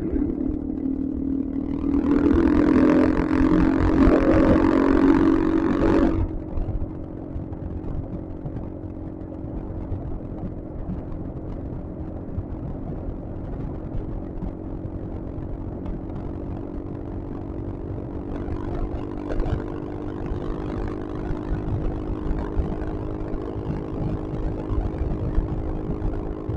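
Yamaha XMAX scooter's single-cylinder engine running steadily at cruising speed, with a rush of wind and road noise. A louder rush of noise comes in about two seconds in and cuts off suddenly about six seconds in.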